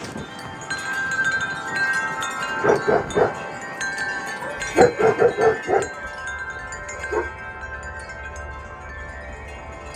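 Several metal wind chimes ringing steadily as the wind swings them. A dog barks over them in short bursts: a couple of barks about three seconds in, a quick run of four or five about five seconds in, and one more near seven seconds.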